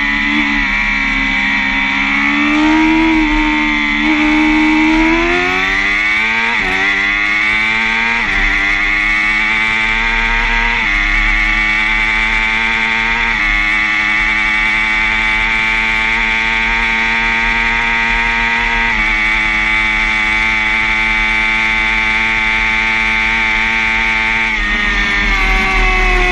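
Sportbike engine heard onboard, accelerating hard: its pitch climbs and drops back at each of several quick upshifts, then holds steady at high speed.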